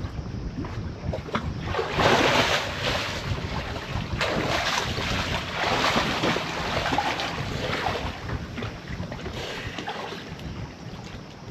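Wind buffeting the microphone with a constant low rumble, over waves and water washing around a sailboat's hull; the noise swells louder a few times, most strongly about two seconds in and again through the middle.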